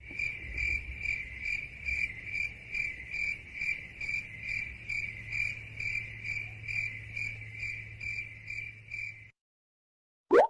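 Stock crickets sound effect, the kind used for an awkward silence: crickets chirping in an even rhythm, about two and a half chirps a second, cutting off suddenly about nine seconds in. A short rising swoosh follows near the end.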